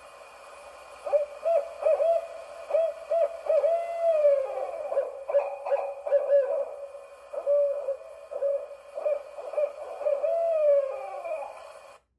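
Owls calling: a long, rapid series of hoots, many with rising and falling slides, some overlapping as if more than one bird. The calls stop abruptly near the end.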